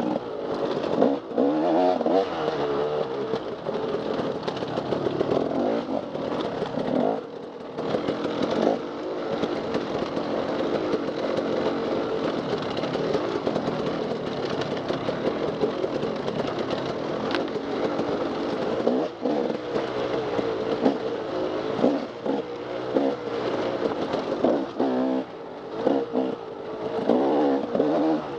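Dirt bike engine revving up and down under hard off-road riding, its pitch rising and falling with the throttle, with brief let-offs about seven seconds in and again near twenty-five seconds.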